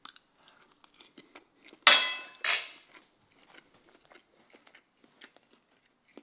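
Close chewing of crispy fried walleye on a syrup-topped waffle, with small faint crunches and clicks throughout. About two seconds in come two much louder sharp sounds, half a second apart, each with a brief ring.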